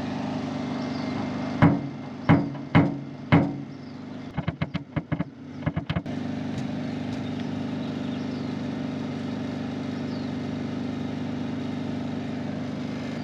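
Tapping on the truck's sheet-metal panel with a paintless-dent-repair knockdown tool to open up the dent and relieve the metal's tension. There are four firm taps about half a second apart, then a quick run of lighter taps, over a steady motor hum.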